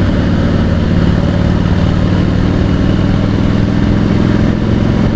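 V-twin cruiser motorcycle engine running at a steady pace on the road, with wind rushing past the microphone.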